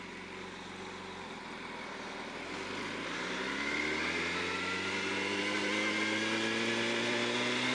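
Yamaha R1's inline-four engine running low at first, then pulling with its pitch rising slowly and steadily from about three seconds in as the motorcycle accelerates in one gear.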